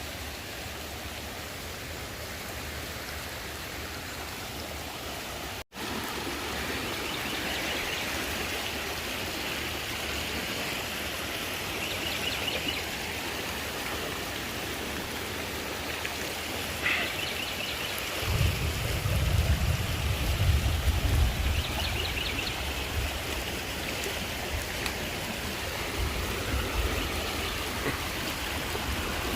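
Rushing water of a flood-swollen creek, a steady hiss. Faint rapid chirping comes and goes, and an irregular low rumble joins in over the second half.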